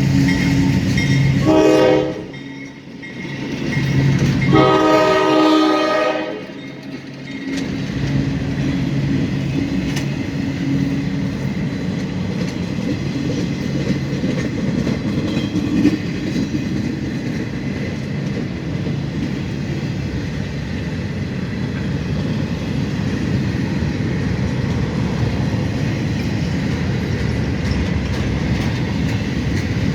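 Freight locomotive air horn blowing two blasts, the first ending about two seconds in and the second a few seconds later. After that the train rolls past with a steady rumble and clatter of wheels on the rails.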